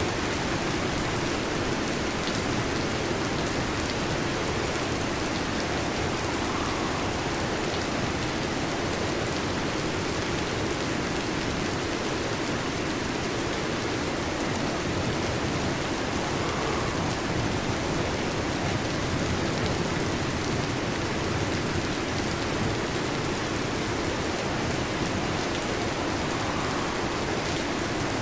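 Heavy rain falling steadily on a metal roof, a dense, even patter with no let-up.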